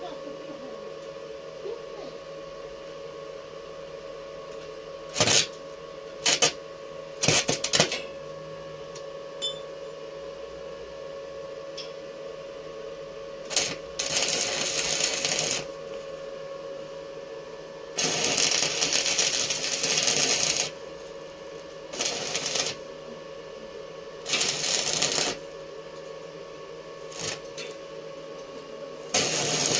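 Electric arc welding on steel: a run of short tack welds, each crackling for one to two and a half seconds, about eight in all, over a steady hum.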